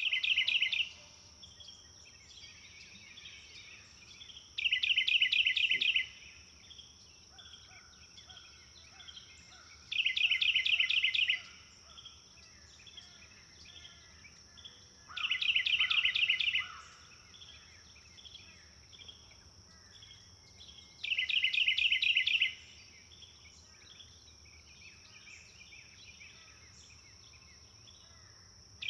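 Forest birds: one bird repeats a loud, fast trilled song about a second and a half long, five times at intervals of roughly five to six seconds, while other birds chirp faintly in between. A steady high-pitched hum runs underneath throughout.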